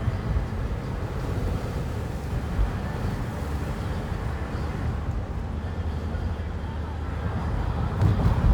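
Strong wind buffeting against the windows of a moving car, heard from inside the cabin over a steady low rumble of road noise.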